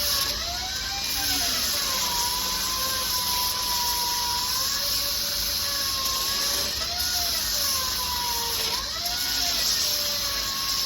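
Angle grinder grinding down welds on steel car bodywork, its motor pitch dipping and recovering repeatedly as the disc is pressed on and eased off, over a steady high grinding hiss.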